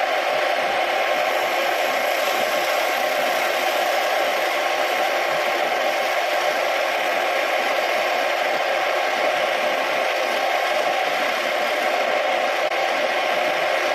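Motor of a homemade wood lathe running steadily, a continuous whir with a light rattle.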